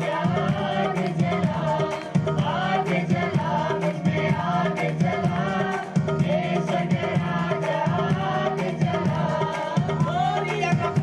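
Hindi worship song sung to music, with a steady hand-drum beat under the melody.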